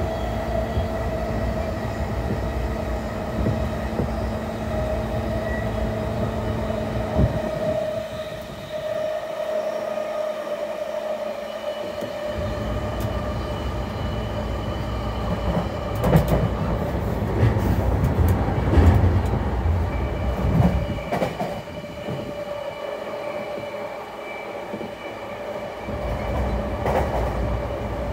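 JR East E233-0 series electric commuter train running at speed: a continuous rumble of wheels on rail under a steady whine from the drive. About halfway through comes a run of sharp clicks and knocks, like wheels over rail joints or points.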